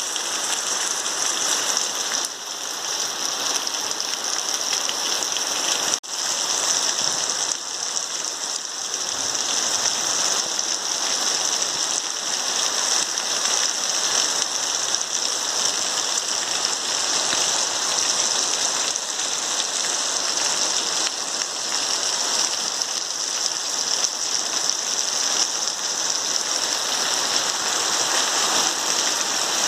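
Heavy rain falling steadily in a dense hiss, cutting out for an instant about six seconds in.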